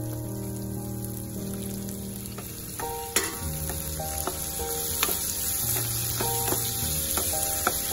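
Sliced onions, whole spices and tomatoes sizzling in oil in a nonstick frying pan as a wooden spatula stirs them, with sharp clicks of the spatula against the pan, the loudest about three seconds in. Soft background music plays underneath.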